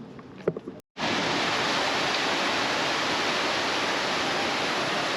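Rushing water of a waterfall or cascading stream, a loud, steady noise that starts abruptly after a brief gap about a second in.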